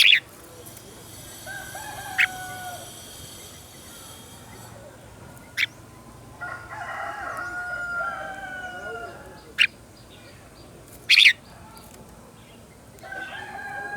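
Red-whiskered bulbuls singing short warbling phrases, punctuated by five sharp, loud, very short notes. A rooster crows among them.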